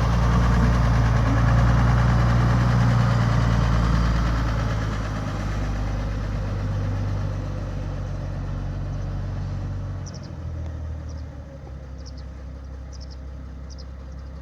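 Tractor diesel engine running steadily, gradually getting quieter, with a further drop in level about ten seconds in.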